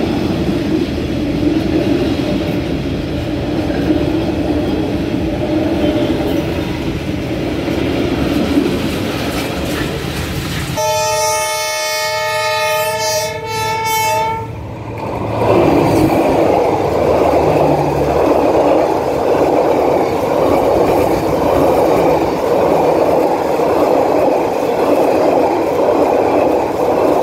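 Passenger train coaches rolling past with a steady rumble of wheels on the rails. About eleven seconds in, a locomotive horn sounds for about three and a half seconds, several tones at once. Then the coaches of a second train pass close by with a louder, denser rumble.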